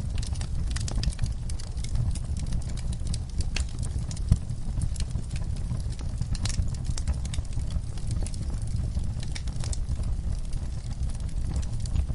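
Wood fire crackling in a fireplace: frequent sharp pops and snaps over a steady low rumble, with one louder pop a little after four seconds in.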